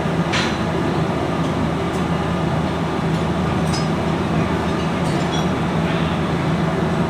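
Steady, loud machinery drone with a low hum, with a few light metallic clinks about half a second in and here and there after.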